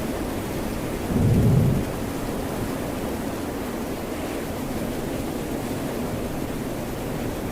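Steady rain and ocean surf noise. About a second in, a short, loud, low rumble rises over it for under a second.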